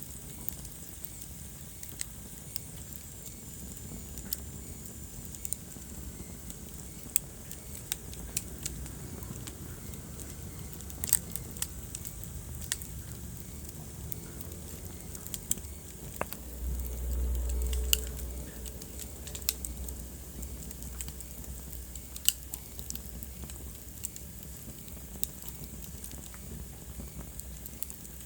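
Wood fire in a fireplace crackling, with scattered sharp pops over a low rumble of the flames. The rumble swells briefly about two-thirds of the way through.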